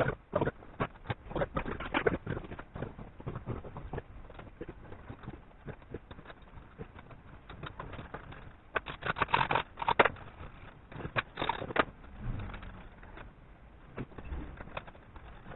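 Irregular clicks and knocks of hand tools working on metal motorcycle parts, with two short spells of denser clatter about nine and eleven seconds in.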